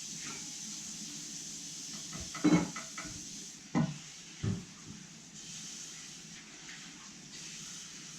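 A few short knocks from things being handled: the loudest about two and a half seconds in, two more around four seconds, over a steady background hiss.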